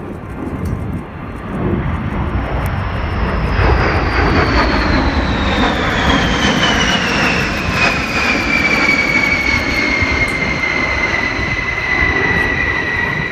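B-52 bomber's jet engines passing by: a loud rumble builds about two seconds in, and a high engine whine falls steadily in pitch as the aircraft goes past.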